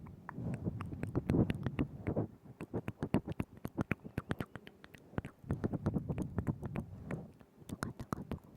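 Wet mouth sounds right at the microphone: quick lip smacks and tongue clicks, many a second, with two denser runs, one in the first couple of seconds and another just past the middle.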